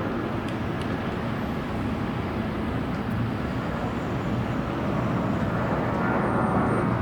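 Jet airliner engines giving a steady rumble that slowly grows louder.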